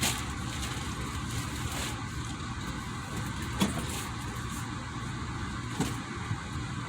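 Steady low rumble with a hiss over it, unbroken, with two brief faint sounds about three and a half and six seconds in.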